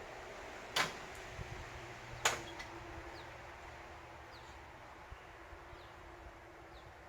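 Two sharp knocks about a second and a half apart, over a faint steady hum.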